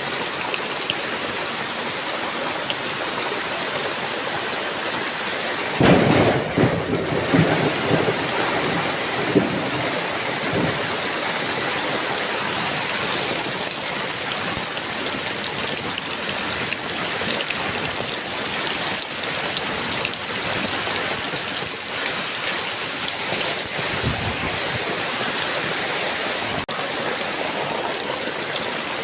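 Heavy rain falling steadily, with a sudden clap of thunder about six seconds in that rumbles on for several seconds.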